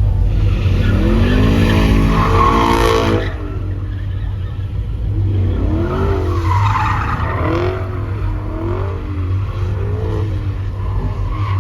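Car tires squealing in wavering, rising and falling pitches over a steady low engine rumble, in two long stretches about two seconds apart.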